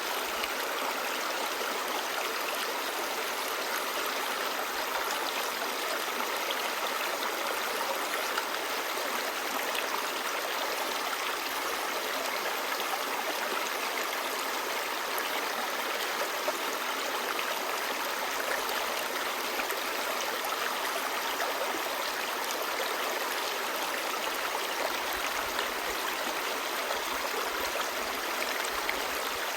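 Clear stream babbling: a steady, even rush of flowing water with fine gurgles, and little deep rumble.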